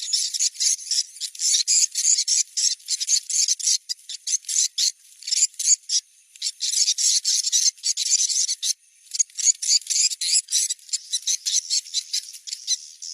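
Recorded swiftlet calls: rapid, high-pitched twittering chirps in quick runs, with a few short pauses. This is a lure sound of the kind played at a site to check whether swiftlets are around.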